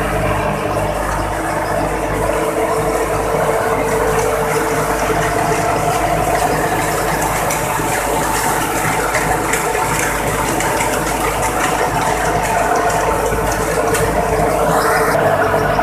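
Tractor-powered thresher running steadily while threshing mustard: a continuous mechanical clatter of rattles and ticks over the steady drone of the tractor engine driving it. A short rising whine comes in near the end.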